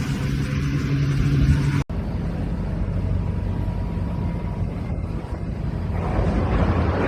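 An engine running with a steady low drone, cut off abruptly just before two seconds in, followed by a steady low engine rumble with noise over it.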